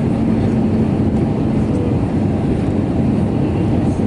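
Cabin noise inside an Airbus A320neo in flight: a steady low rumble of its CFM LEAP-1A engines and airflow, with a faint steady hum.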